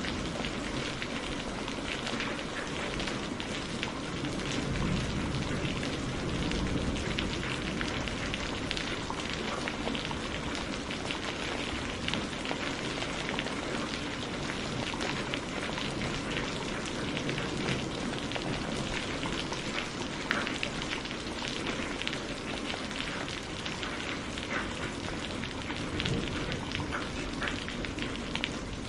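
Steady rain falling, a dense hiss full of fine drop ticks, with the crackle of a wood fire mixed in.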